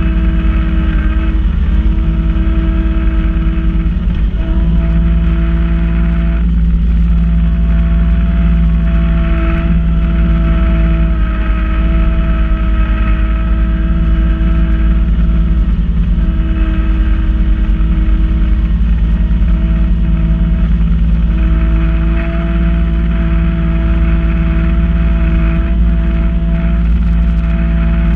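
Kubota B2650 compact tractor's three-cylinder diesel engine running steadily while driving its front-mount snow blower, with a steady whine over the engine hum that drops out briefly a few times.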